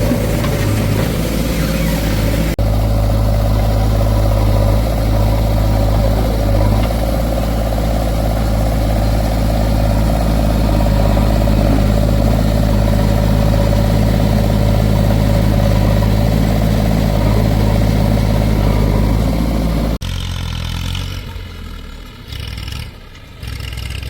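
Diesel engine of heavy earth-moving or farm machinery running steadily with a deep hum. The sound changes abruptly about two and a half seconds in, and near the end it drops to a quieter, uneven engine sound.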